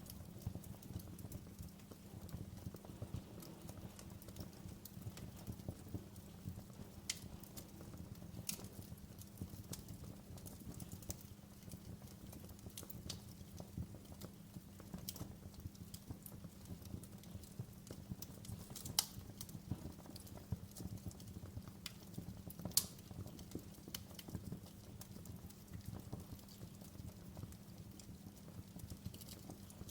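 Wood fire crackling in a fireplace: irregular sharp pops and snaps over a low, steady rumble of the flames, with a couple of louder pops in the second half.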